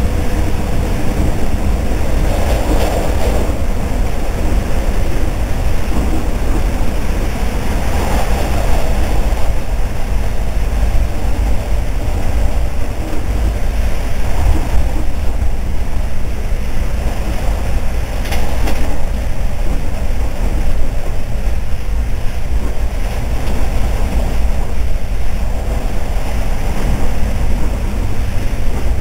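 Regional passenger train running at speed, heard from inside the carriage: a steady, loud low rumble of the wheels and running gear with a rushing noise over it, swelling now and then.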